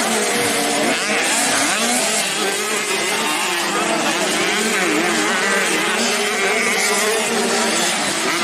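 Several small 85cc dirt bike engines racing together, their pitches rising and falling and overlapping as the riders rev up and shift.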